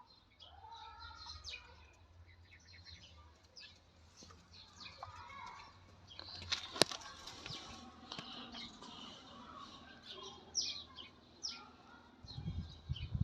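Birds chirping and calling over and over, with some wing flapping. A sharp click about halfway through and a few low thumps near the end.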